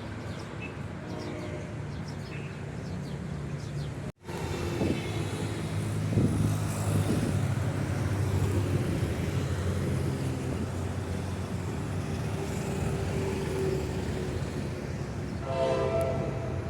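General Electric diesel-electric locomotive running with a steady low engine drone, which gets louder after a sudden break about four seconds in. A short horn blast sounds near the end.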